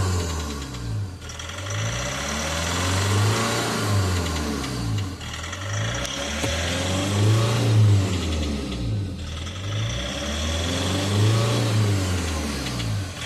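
Skoda Rapid diesel engine revving up and down on its own, its pitch rising and falling again and again about every two seconds. This is the engine control unit's automatic pilot-injection learning routine, run to cure injector knocking.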